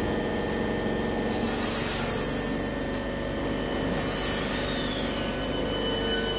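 Southeastern electric multiple unit moving slowly past the platform: its traction motors hum and whine with steady tones, and a high-pitched squeal is loudest from about one and a half to four seconds in.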